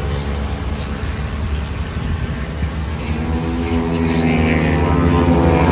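Motorcycle engines running and revving, growing louder about four seconds in.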